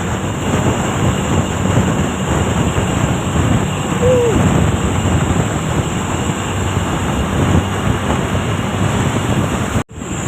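Steady road noise of passing traffic, with wind rumbling on the microphone. A short squeal comes about four seconds in, and the sound cuts out for an instant near the end.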